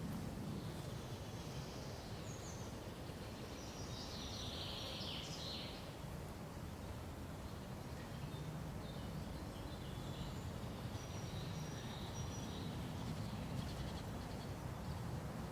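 Small songbirds chirping and calling in short high twittering phrases, one cluster a couple of seconds in and another in the second half, over a steady low background hush.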